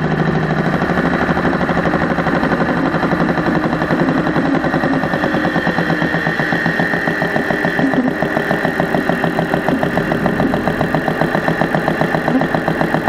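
Engine running steadily with a fast, even rhythmic tick from the top end. The owner suspects the mechanical fuel pump or a weak valve spring rather than the lifters and rockers, which are getting plenty of oil.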